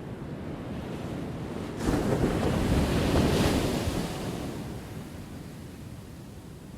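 Ocean waves on a shore: steady surf wash, with one wave crashing suddenly about two seconds in, then fading out over a few seconds.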